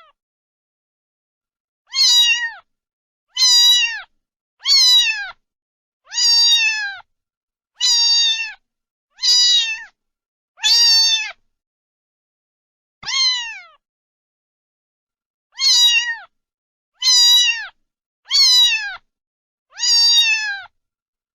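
A cat meowing over and over: about a dozen high, loud meows, each under a second long and dropping in pitch at the end, with a longer pause a little past halfway.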